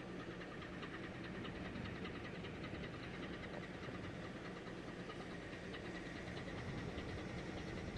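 A boat's engine running steadily, a low even drone with a faint fast ticking, under a haze of wind and hiss.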